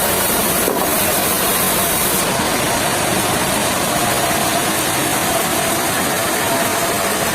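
Heavy machinery running steadily, a continuous loud mechanical noise with a faint steady hum in it.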